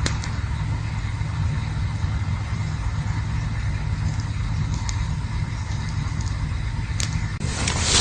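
Campfire burning, with a few sharp crackles and pops over a steady low rumble. Near the end a louder hissing rush builds.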